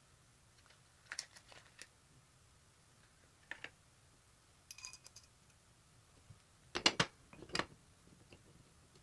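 Small parts and hand tools being handled on a workbench, making scattered light clicks and knocks. There is a brief metallic ring about five seconds in, and the loudest pair of knocks comes about seven seconds in.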